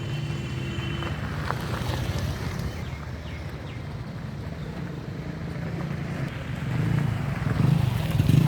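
Motor vehicle engine running steadily with traffic noise, growing louder near the end.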